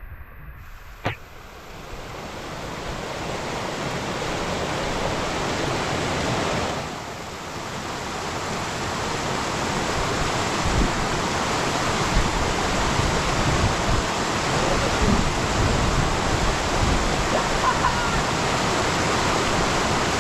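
A steady rushing noise that builds over the first few seconds and then holds, with one sharp click about a second in.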